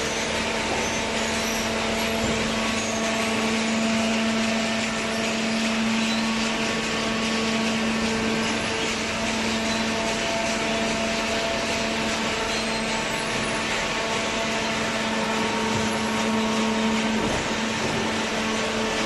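Hydraulic cardboard baler running: a steady machine hum with a constant low tone over an even hiss, with no pauses or strokes.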